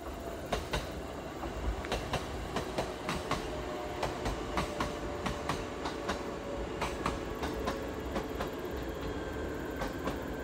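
ET127 series electric train passing along the track: a run of wheel clacks over the rail joints, a few a second, over a steady rumble and faint hum.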